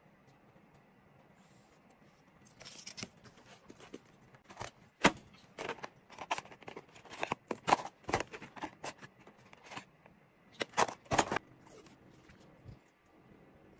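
Paper and stationery being handled while making a journal spread: a run of small clicks, taps and rustles, the sharpest about five seconds in, then a pair of clicks a little before the end.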